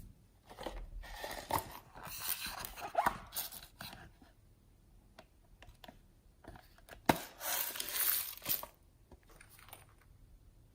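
Hands working slime and mixed-in makeup, giving two stretches of crackly, crunchy noise with a sharp click about seven seconds in.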